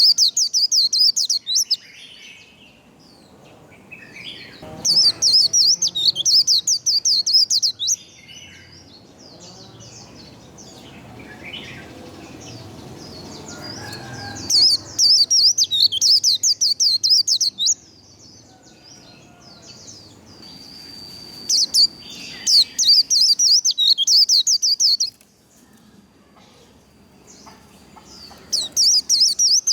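White-eye (vành khuyên) singing its fast, high-pitched 'líu' warble in repeated bursts of about three seconds, with quieter gaps and a few soft calls between them.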